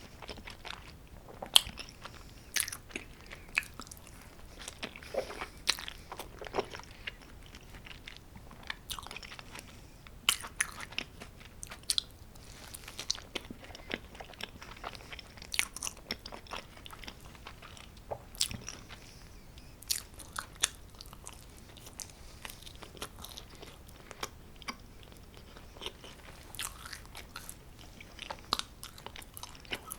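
A person chewing and biting homemade pizza close to the microphone: irregular crisp crunches and wet mouth clicks, with a few louder bites.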